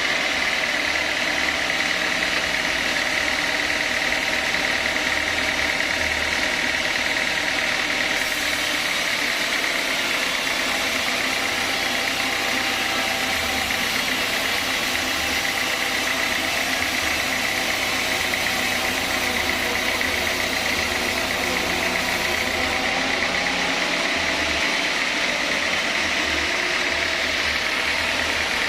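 Sawmill saw and its drive running steadily, with a strong high whine; a sharper hiss joins the sound from about eight seconds in until a few seconds before the end.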